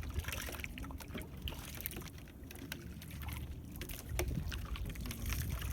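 Sounds aboard a small fishing boat at sea: water against the hull over a steady low rumble, with many scattered small clicks and knocks.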